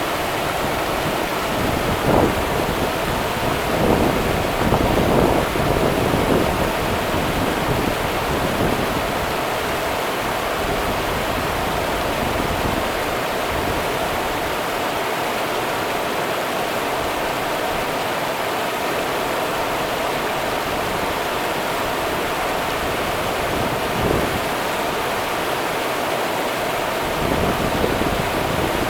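Rio Grande river water running, a steady rush with a few brief louder surges, about two to six seconds in and again near the end.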